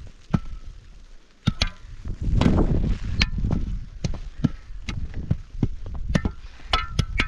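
Repeated sharp blows of a hand tool, about a dozen strikes at an uneven pace, several with a brief ring, and a louder rumbling stretch about two seconds in.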